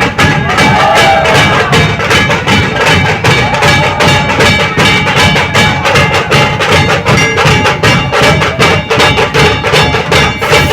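Nashik dhol drumming: a loud, fast, steady beat of many drum strokes from a procession drum troupe.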